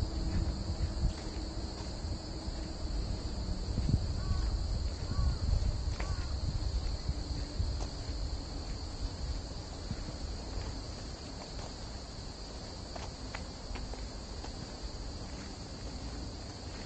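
Steady high insect chorus from the summer forest, with the soft thuds of footsteps on a spongy forest path, heavier in the first half. A few short chirps come in about four to six seconds in.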